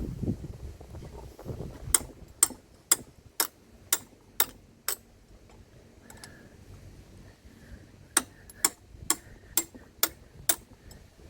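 Sharp metallic taps from hand tools on the engine, evenly spaced at about two a second: a run of seven, a pause of a few seconds, then six more.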